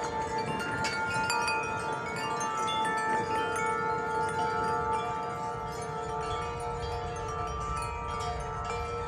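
Wind chimes ringing in strong wind, several tubes struck again and again so that their tones overlap and ring on, over a low rumble of wind.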